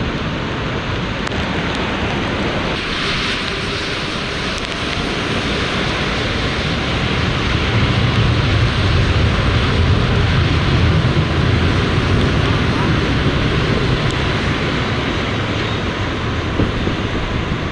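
Strong gale wind blowing across the microphone in a steady rush, with a deeper rumble building about eight seconds in and easing off toward the end.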